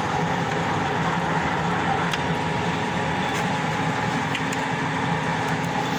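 FT-11F1 lathe running steadily under power, with its carriage feeding along on the lead screw in thread-cutting mode; a constant gear-train hum.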